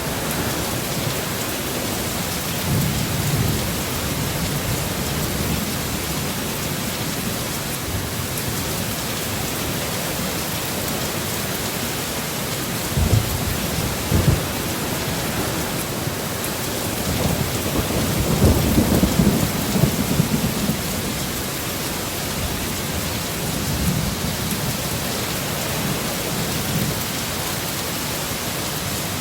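Steady heavy rain with rumbles of thunder rolling in low several times, the longest swell building and fading from about 17 to 21 seconds in.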